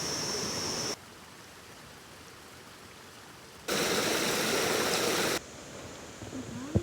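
Steady rushing outdoor noise, cut abruptly between louder and quieter passages: loud for about the first second, quiet, loud again from near the middle for under two seconds, then quiet, with a short knock at the very end.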